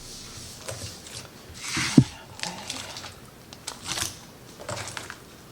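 Kitchen handling sounds: scattered clicks and scrapes of utensils and dishes, with a short scrape followed by one sharp knock about two seconds in.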